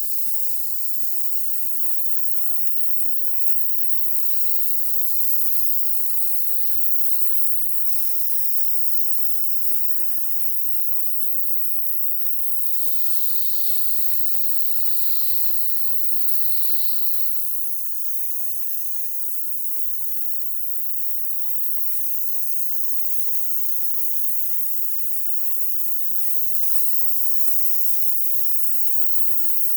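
Steady high-pitched hiss of a spray, changing tone about a third of the way in and again in the middle as the spray is moved or varied.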